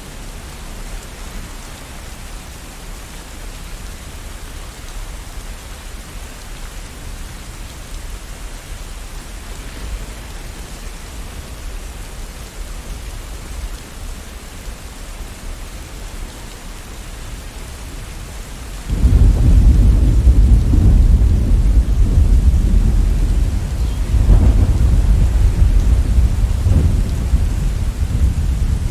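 Steady rain, then about 19 seconds in a sudden loud, low rumble of thunder that rolls on with a second swell a few seconds later, continuing through the end.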